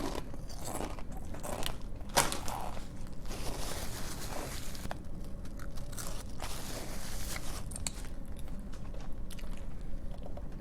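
Close-up crunching and chewing of SunChips multigrain chips, with irregular crisp bites.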